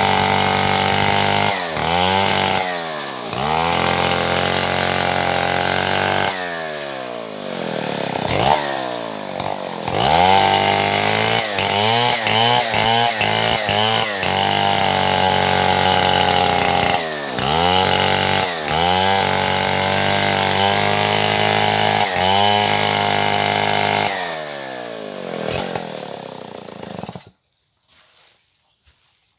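Stihl MS070 chainsaw, a big single-cylinder two-stroke, running at high revs with its pitch repeatedly dropping and climbing back, as it bogs under load in the wood and frees up again. The engine cuts off suddenly about 27 seconds in.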